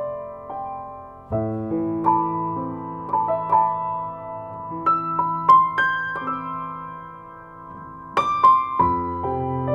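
Slow solo piano music, single notes over held low chords.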